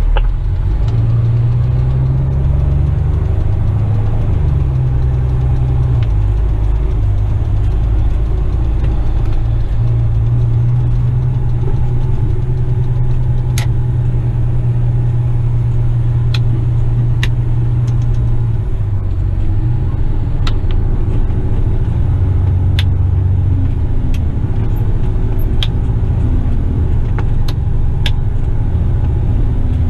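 Western Star tipper truck's diesel engine running, heard from inside the cab: a steady low drone whose pitch steps up and down several times, with scattered faint clicks.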